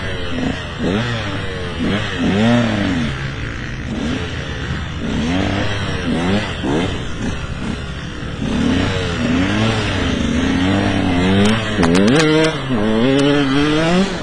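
KTM 125 EXC two-stroke single-cylinder engine revving up and down over and over as the bike is ridden, its pitch rising and falling about every second. A few sharp knocks come about twelve seconds in.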